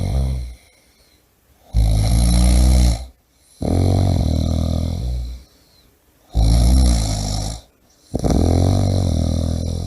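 A person snoring loudly and rhythmically: about five rasping, low snores, each a second or two long, with short pauses between.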